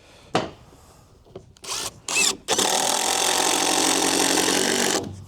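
Power drill driving a screw into wood: a few short triggers of the motor, then one steady run of about two and a half seconds as the screw is driven home.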